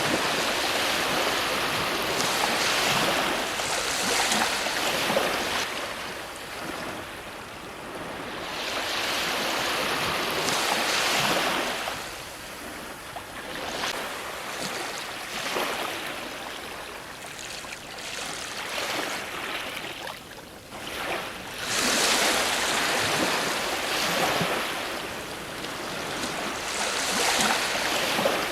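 Ocean waves breaking on a shore, the surf swelling and fading in surges every few seconds, with a loud wash of breaking water about 22 seconds in.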